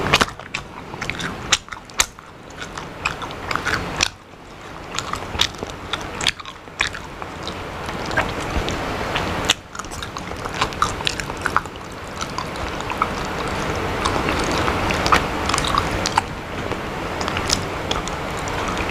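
Close-miked eating sounds: wet chewing, biting and lip smacks, many short irregular clicks from the mouth.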